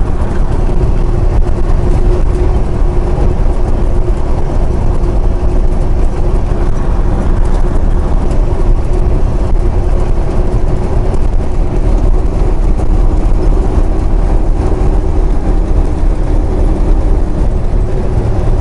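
Semi truck cruising at highway speed, heard from inside the cab: a steady drone of diesel engine and road noise with a constant low hum.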